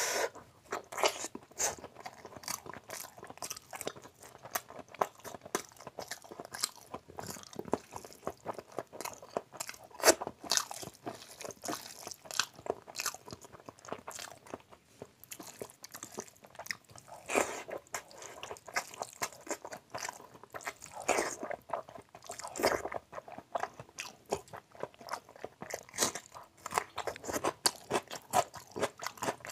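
Close-miked chewing and mouth sounds of a man eating rice with fatty mutton curry by hand: a continuous run of short, wet clicks with a few louder bites.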